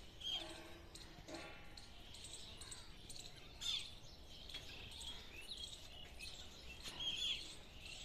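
Small birds chirping: short, bright calls, the loudest three coming near the start, about halfway and near the end, with fainter chirps between, over a faint steady background hiss.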